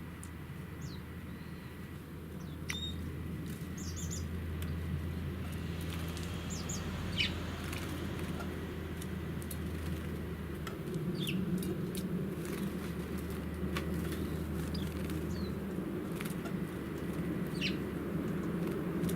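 Small songbirds giving scattered short, high chirps, with light splashing and wing flutters as they bathe in a bird bath, over a steady low hum.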